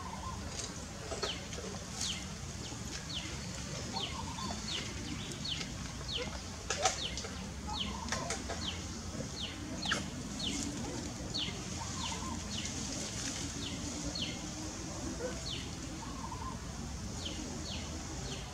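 Birds chirping outdoors: short, high chirps that fall in pitch, one or two a second, with a few faint lower calls and occasional clicks over a steady low background noise.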